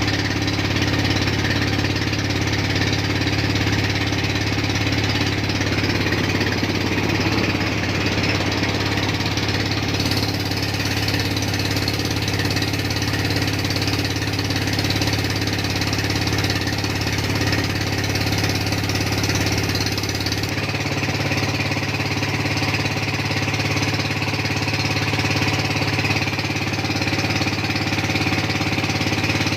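Boat engine running steadily, a loud low drone with a rough, hammering edge. Its tone shifts slightly about twenty seconds in.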